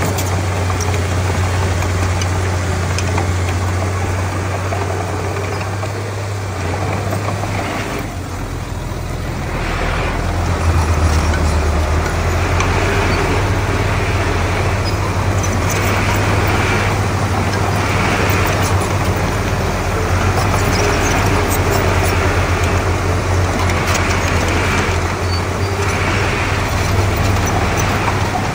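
Komatsu D31P bulldozer's diesel engine running steadily. It eases off for a few seconds about a quarter of the way in, then picks up and runs harder for the rest.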